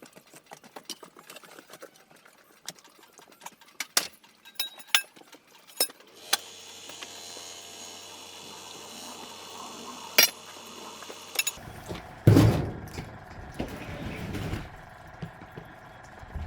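Scattered light clinks and knocks of hard objects being handled. A steady hiss joins about six seconds in, and near the end comes a louder burst of clattering and scraping.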